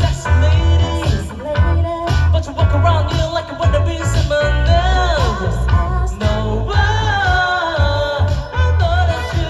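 A live band playing an upbeat song with a heavy, pulsing bass and drum beat and a voice singing the melody.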